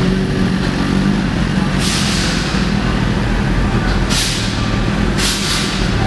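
Four short hisses of escaping air, about two, four, five and five and a half seconds in, over a steady low hum.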